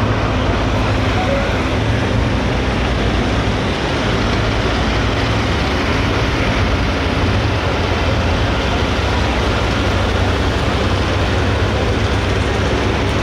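Super stock pulling tractor's diesel engine running loud and steady at a constant speed.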